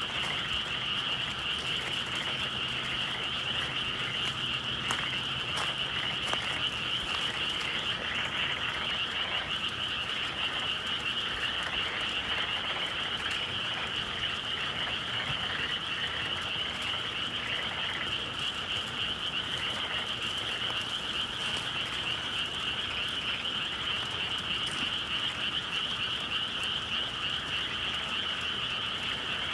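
A dense, steady chorus of many frogs calling at once, as heard on a spring evening in the countryside.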